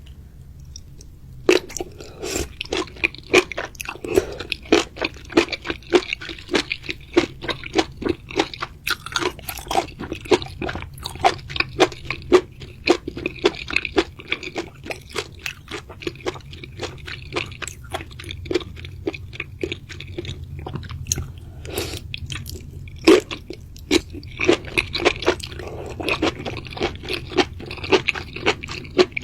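Close-miked ASMR eating: a person biting and chewing crunchy food in quick, repeated crunches that start about a second and a half in, with a short pause about three-quarters of the way through.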